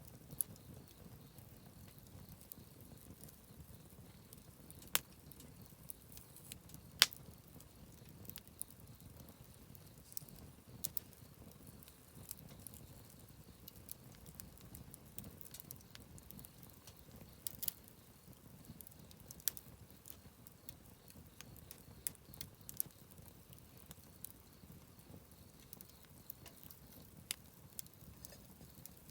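Wood fire burning, with irregular sharp crackles and pops from the burning wood over a low, steady rumble; the loudest pop comes about seven seconds in.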